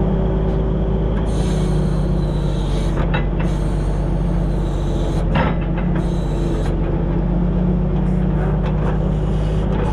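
Kenworth self-loading log truck's engine running steadily at a constant pitch while logs are loaded, with a couple of light knocks about three and five and a half seconds in.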